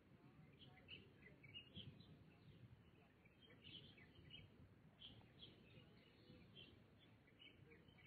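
Small birds chirping faintly, many short high notes overlapping every fraction of a second, over a steady low background rumble.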